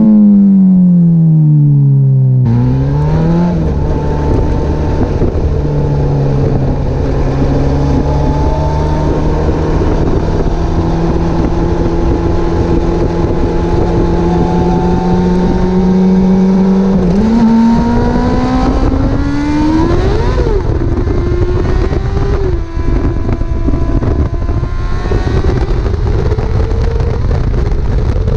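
Honda CBR600RR inline-four sportbike engine through an open, loud exhaust, heard while riding. The engine winds down sharply, the sound jumps abruptly to a steady cruising note, and later it climbs in revs with a quick rev and drop about twenty seconds in, followed by varying throttle.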